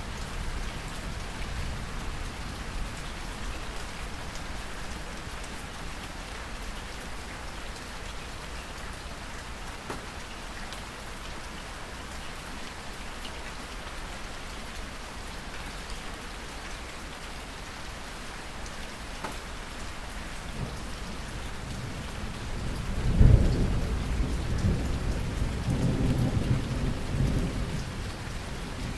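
Steady rain falling, with a thunderclap near the end that breaks with a sharp crack and rolls on as a low rumble for several seconds.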